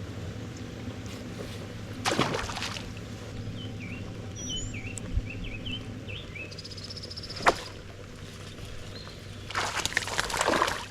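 Outdoor ambience with a steady low hum, a few short chirping bird calls about halfway through, a single click, and two brief rushes of noise, one about two seconds in and one near the end.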